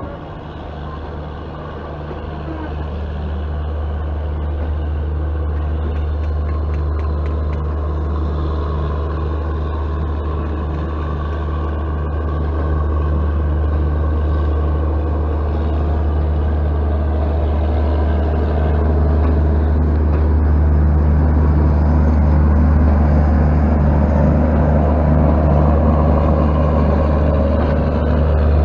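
A passenger train pulling out and gathering speed, heard from a coach window: a steady low rumble of the running train and wind on the microphone that grows louder, with a few faint clicks.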